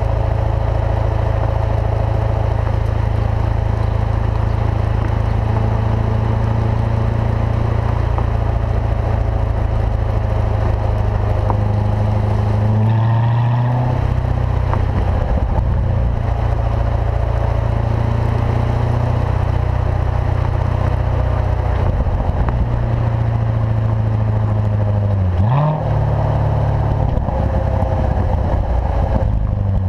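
2014 Corvette Stingray's 6.2-litre LT1 V8 through its performance exhaust, running at steady low revs while driving. The note rises briefly and breaks about 13 seconds in and again about 26 seconds in.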